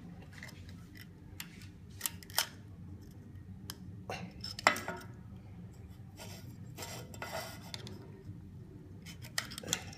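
Metal tool clicking and scraping against an automatic gearbox part as a hardened rubber seal is worked off it, with scattered sharp clicks, the loudest a little before halfway, and a longer scrape later on.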